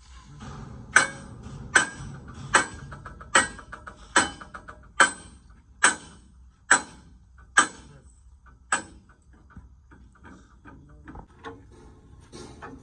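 Hammer blows on steel, about ten strikes a little under a second apart, each one ringing, followed by lighter, irregular taps.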